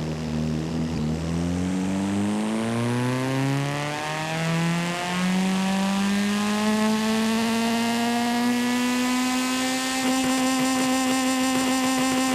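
Video-game car engine accelerating hard: its pitch climbs over the first few seconds, with a couple of brief breaks, then holds steady and high.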